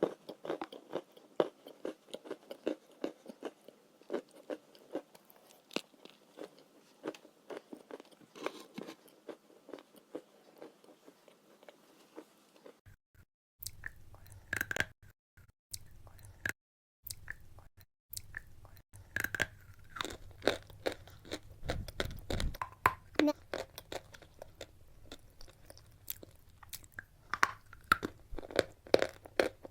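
Close-up crunching and chewing of edible chalk: a quick, irregular run of crisp bites and crunches, with a few brief dropouts to silence about halfway through.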